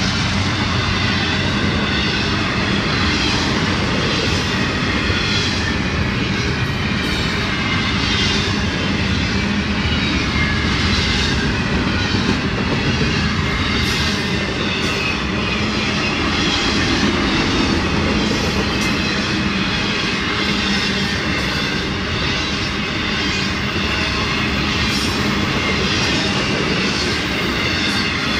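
Freight train of intermodal cars rolling past close by: a steady, loud rumble of steel wheels on the rails, with repeated clicks as the wheels pass over joints.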